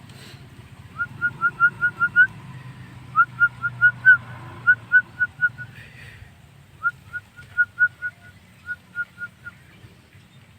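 Javan myna (jalak kebo) calling a fast series of short rising whistled notes, about four a second, in three runs separated by brief pauses, over a low steady rumble.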